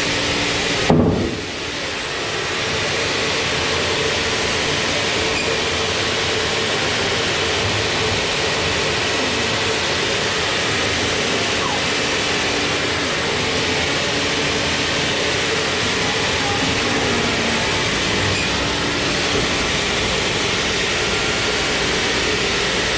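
Sawmill machinery running steadily and loudly, with a few held droning tones over a broad noise, and one sharp bang about a second in.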